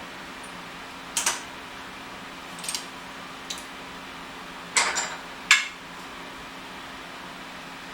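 Small metal parts clinking and clacking as they are handled, about five short, sharp knocks in a few seconds over a steady fan hum.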